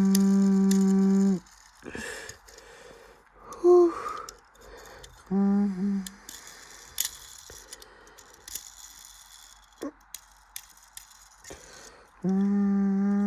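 Bridgestone Altus Newing washing machine in its wash cycle, its motor humming in short bursts: one about a second and a half long at the start, a brief one in the middle and another near the end. Light clicks and rattles come from the machine in between.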